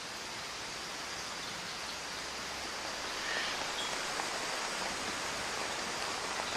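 Heavy rain falling steadily, an even hiss that grows a little louder about halfway through, with a couple of faint short high chirps in the middle.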